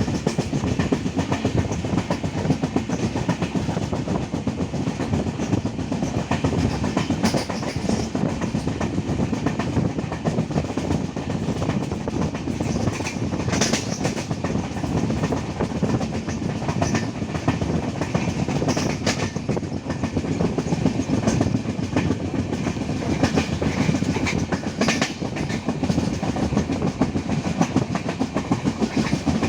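Passenger train running along the line, heard from on board: a steady rumble of wheels on the track with occasional sharp clacks over the rail joints.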